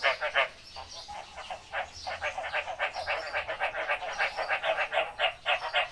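Frog calls in a fast train of short croaking pulses, about five a second. The calling thins out for about a second and a half near the start, then picks up again.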